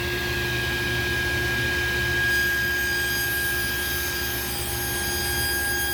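Table saw running steadily with a constant motor hum and whine; several higher steady tones join about two seconds in.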